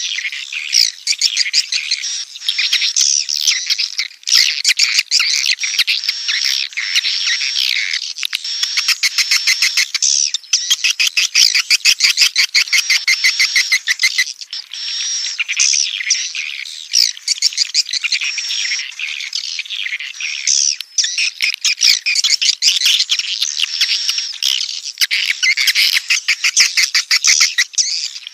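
Swiftlet chicks calling in the nest: a loud, dense, continuous twittering of high chirps, broken by stretches of fast, evenly spaced chattering notes.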